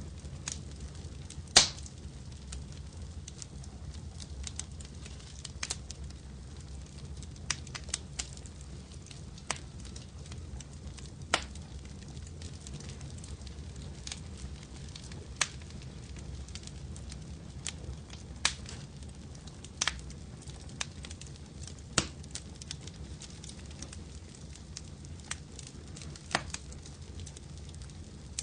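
Wood fire crackling in a fireplace: irregular sharp pops and snaps over a low steady rumble, the loudest pop about one and a half seconds in.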